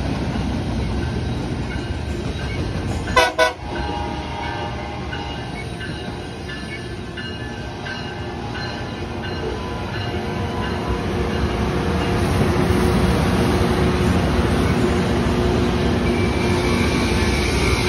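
Rail cars rolling past on two tracks, with a LORAM rail grinder's running gear and machinery passing close by. Two short train horn blasts sound about three seconds in. The rolling noise grows louder through the second half as the grinder draws alongside.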